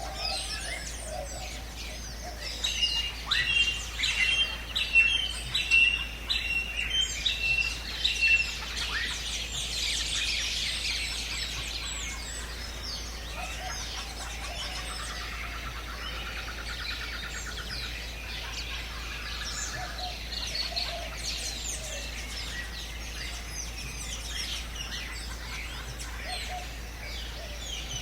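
Several birds calling and chirping together. For about six seconds in the first third, one bird repeats a loud, clear note about twice a second. A fainter rapid buzzy trill comes near the middle.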